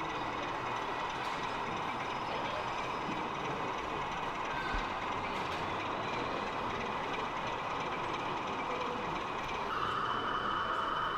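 Sound-fitted 00 gauge model locomotive's recorded engine sound playing from its small onboard speaker, a steady running note over the general hum of an exhibition hall. A new higher steady tone joins near the end.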